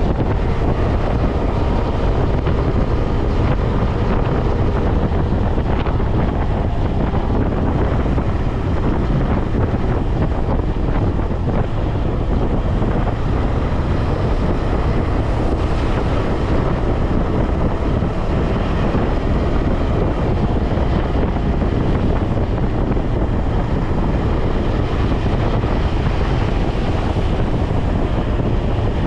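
Wind buffeting the microphone at highway speed on a KTM 250 Adventure motorcycle, a steady rumbling rush, with the bike's engine running faintly underneath.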